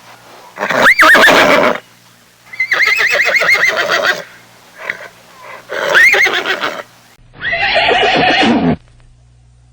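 Horses whinnying: four separate loud, shrill neighs, each rising in pitch and then falling away over about a second or a second and a half.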